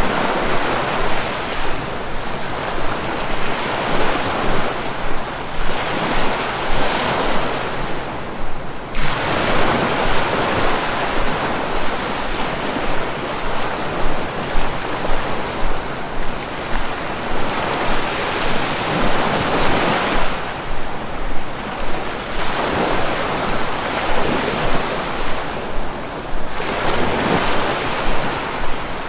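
Sea waves washing in continuously, the surf swelling and easing every few seconds.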